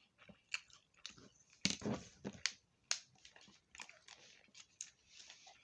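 Close-up eating sounds: chewing with irregular crunches and mouth clicks, fried food such as fish and tater tots being bitten and chewed.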